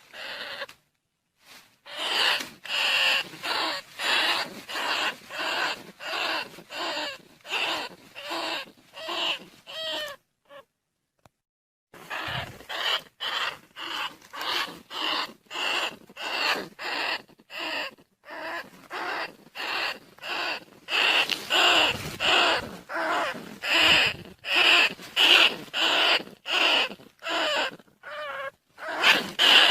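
Rat squeaks used as a lure call for rice-field rats and bandicoot rats: a long run of short shrill squeaks, about two a second, with a brief pause a little before the middle.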